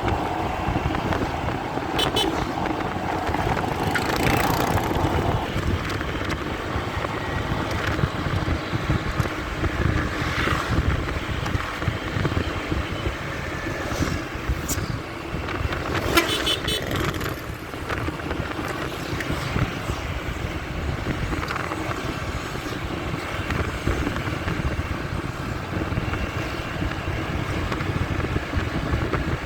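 Muffled motorcycle ride and road traffic heard through a phone in a pocket: a steady low rumble with rubbing and rustling over it. Short horn toots come about two seconds in and again around sixteen seconds.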